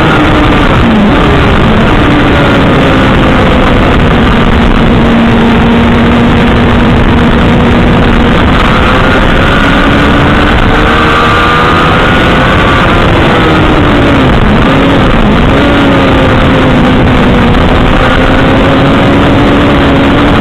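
Motorcycle engine heard onboard at track speed under a heavy rush of wind on the microphone. The revs drop about a second in as the bike slows for a corner, hold steady, climb again around ten seconds in, dip briefly near fifteen seconds and pick up again.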